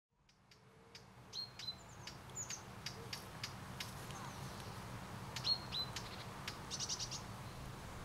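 Wild birds singing as the sound fades in: scattered short chirps, a couple of pairs of quick downward-sliding notes, and a rapid trill near the end, over a faint steady low hum.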